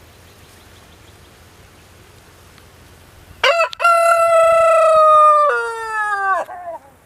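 Rooster crowing once, a full cock-a-doodle-doo about three and a half seconds in: a short opening note, a long held middle that drops in pitch and a falling end.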